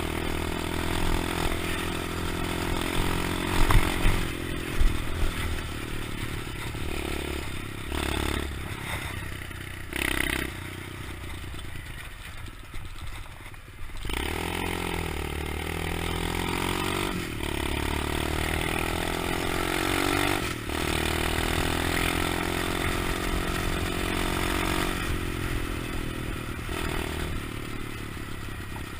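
125cc pit bike engine revving up and down as the bike is ridden, its pitch rising and falling with the throttle. Two sharp knocks or clatters come about four and five seconds in.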